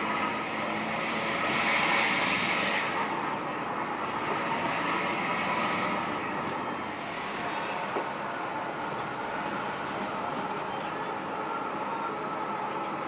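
Intercity bus under way: steady engine and road noise, with a louder hiss swelling and fading about two seconds in.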